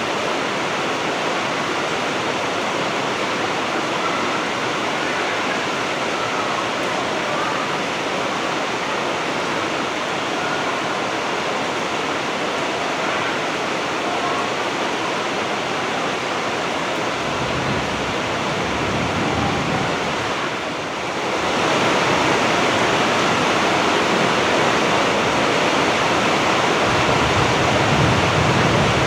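Heavy rain falling in a steady, dense hiss. About 21 s in, it dips briefly and comes back a little louder and fuller in the low end.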